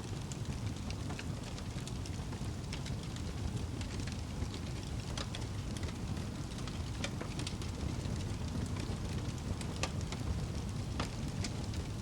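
Wood fire burning in a fireplace: a steady low rumble of the flames, with irregular sharp crackles and pops throughout.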